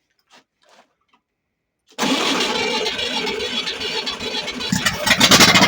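Freshly rebuilt PD-23 engine being started: after a few faint clicks, it bursts into running about two seconds in and gets louder and faster near the end as it picks up.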